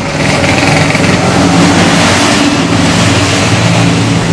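A motor vehicle's engine running steadily, with a low hum under a loud rush of road and wind noise.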